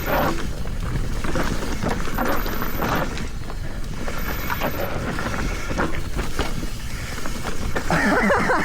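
Mountain bike riding fast down a rough dirt trail: steady rush of wind and tyre noise with clattering and rattling of the bike over bumps. Near the end a short wavering pitched sound cuts through.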